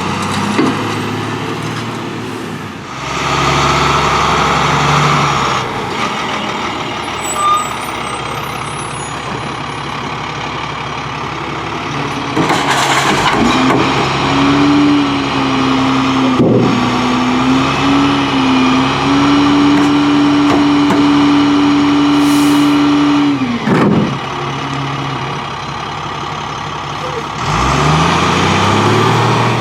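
International garbage truck with a New Way Viper side-loader body running: the diesel engine revs about three seconds in, a steady whine holds for about ten seconds in the middle, short sharp hisses come around twelve seconds in and again after the whine stops, and the engine pitch climbs near the end.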